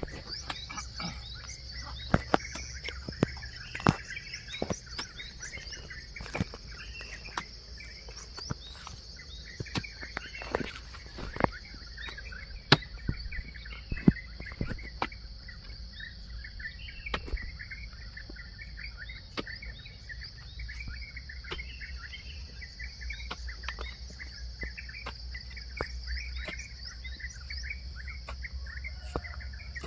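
Hoe blades striking the soil with sharp, irregular knocks, over many birds chirping and a steady high insect drone.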